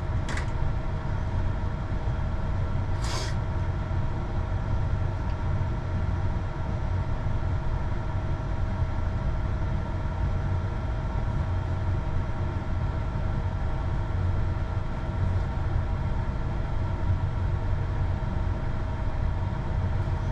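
A machine running steadily: a constant hum with a low rumble under it, and two brief clicks, one just after the start and one about three seconds in.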